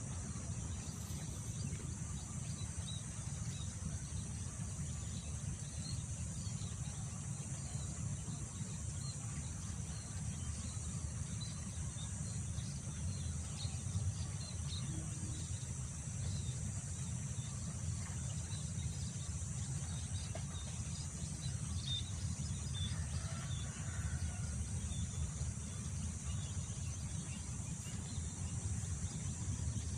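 Wind rumbling on the microphone over a steady high insect drone, with small scattered bird chirps and a short bird call about three-quarters of the way through.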